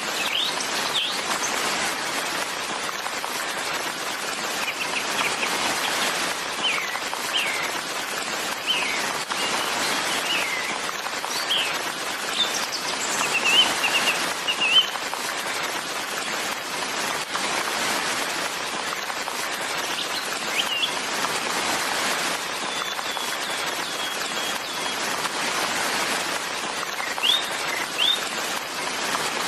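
Small birds chirping and calling in short rising and falling notes, with a quick trill about halfway through, over a steady hiss.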